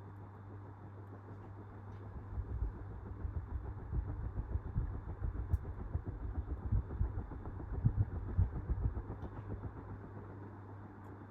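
48-inch Westinghouse Industrial ceiling fan running on its second speed with a steady motor hum. From about two seconds in until near the end, gusts of air from the blades buffet the microphone in an uneven low rumble.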